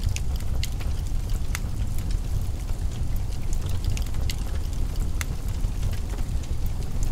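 Wood fire in a fireplace crackling, with scattered sharp pops and snaps at irregular intervals over a steady low rumble.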